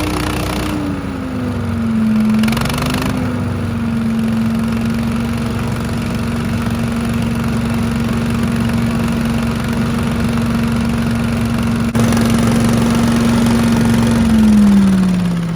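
Small gasoline engine of a DR Leaf & Lawn Vacuum running steadily with the choke set to run. Its speed drops a little about a second in, holds even, then slows down near the end.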